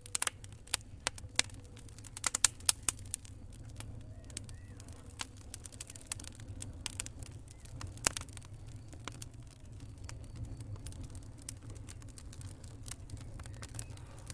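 Wood fire burning in a fireplace: irregular sharp crackles and pops over a steady low rumble of the flames. The pops come thickest in the first few seconds, with another loud one about eight seconds in.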